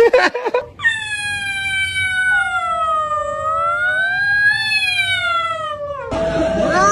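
A pet's long, drawn-out howl of about five seconds, wavering slowly in pitch and given in answer to being asked to meow; a short cry comes just before it, and near the end a cat's meows begin.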